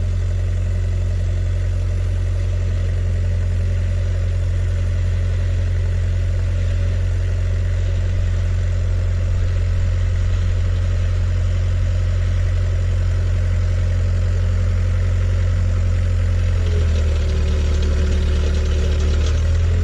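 An engine running steadily, its deep hum shifting in pitch near the end, when a faint whine comes in.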